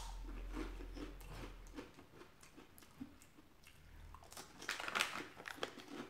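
Close-miked chewing of a crunchy wheel-shaped fried snack, with small crunches and mouth clicks. Near the end a plastic snack bag crinkles a few times as it is handled.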